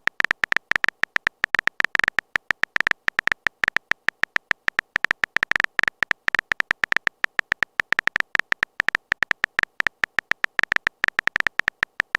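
Chat-typing sound effect: a rapid, uneven run of short high-pitched blips, many per second.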